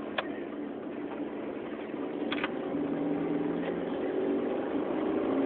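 Ford Escort engine running steadily through its drilled exhaust, slowly getting louder, with a couple of short clicks.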